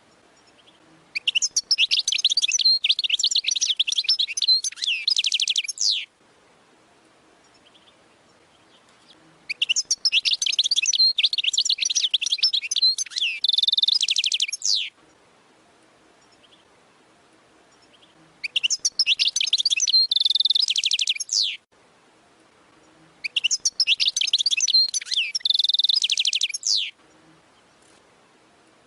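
European goldfinch singing in the 'waddani' style: four phrases of rapid, high twittering and trilling, each a few seconds long, with short pauses between them.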